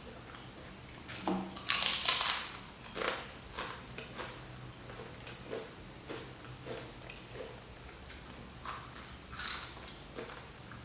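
Close-miked eating: a loud crunchy bite about two seconds in, then soft regular chewing, and another crunch near the end.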